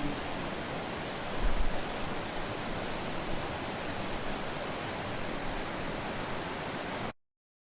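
Steady rush of flowing water, with a brief low thump about one and a half seconds in; the sound cuts off abruptly near the end.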